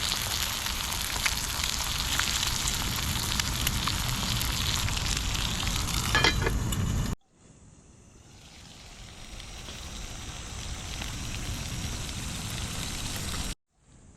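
Steady sizzling hiss with scattered crackles, as of food frying over a campfire. It cuts off suddenly about seven seconds in, and a quieter hiss fades up and is cut off again near the end.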